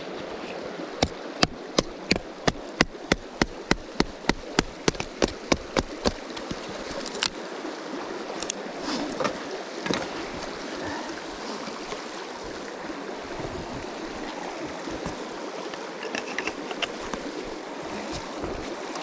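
River water running steadily over stones. In the first half a quick, even run of about a dozen sharp knocks, two or three a second, stands out above it.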